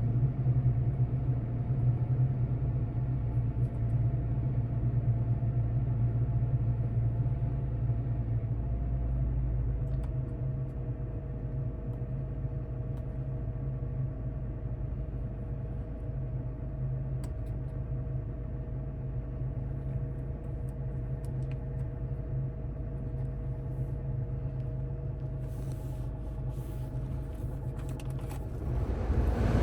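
A 2016 Toyota Tacoma's 3.5L V6 engine idling with a steady low hum. It gets louder, with a rush of broader noise, near the end.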